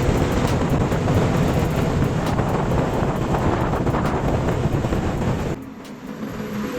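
Bajaj Pulsar NS200 motorcycle riding, with heavy wind rushing over the microphone. About five and a half seconds in the wind drops sharply and the engine's steady hum comes through more clearly.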